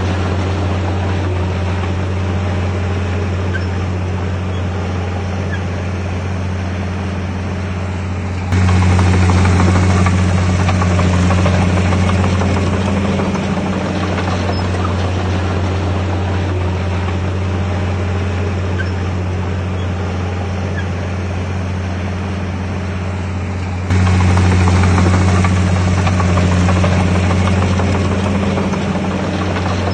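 Komatsu D51PX bulldozer's diesel engine running steadily with a deep, even drone. It gets abruptly louder twice, about eight seconds in and again near twenty-four seconds, then eases back down after each.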